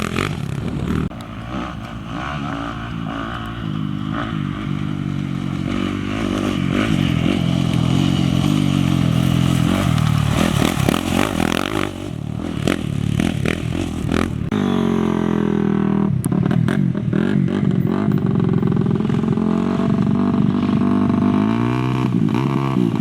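Off-road race motorcycle engine revving hard as it passes, its pitch rising and falling through the gears, with another bike coming through about fifteen seconds in.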